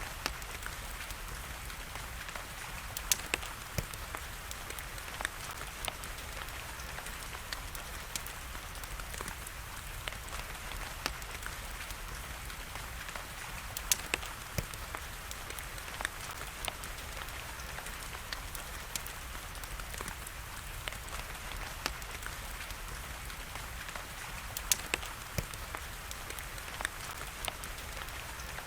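Wood fire crackling, with sharp pops scattered throughout and a few louder snaps, over a steady hiss of rain.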